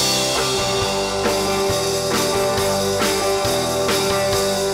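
Live country-rock band playing an instrumental passage: electric guitars, bass and drum kit on a steady beat, with a cymbal crash at the start.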